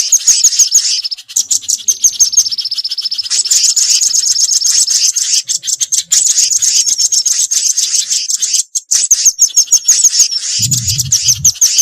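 Bird-lure recording of small songbirds, mixing velvet-fronted nuthatch (rambatan) and spiderhunter calls: dense, rapid, high-pitched chirps and trills repeated in quick runs, played loud. A brief low rumble about a second long comes near the end.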